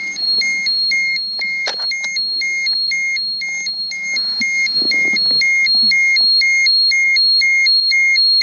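Handheld radiation dosimeter beeping continuously, short electronic beeps about two a second in a steady alternating pattern, as it measures contaminated ground with elevated readings.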